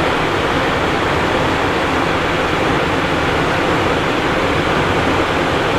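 Steady cockpit noise of a Cessna Citation Encore business jet in flight: a continuous, even rush of airflow and engine noise.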